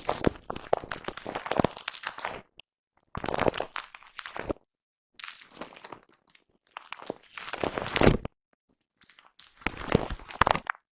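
Brushing on a foam-covered microphone up close: scratchy, crackling swishes in bursts of one to two seconds, separated by short dead-silent gaps.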